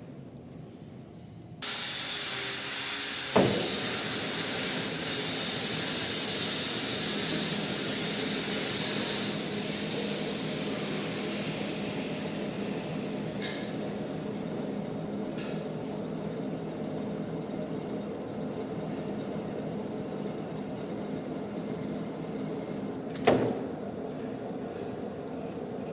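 Manual metal lathe starting suddenly and running steadily, with a loud hiss for the first several seconds that then settles to a lower, even running sound. A single click soon after it starts and a sharp knock near the end.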